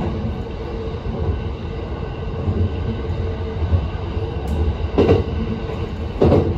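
JR East E657 series electric train running at speed, heard from inside the car: a steady low rumble with a faint steady hum. Two short louder swells come about five and six seconds in as something passes close by the window.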